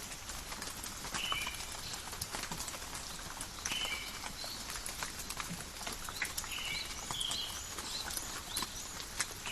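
Steady rain falling in a forest, with many scattered drop ticks, and short bird calls repeated several times.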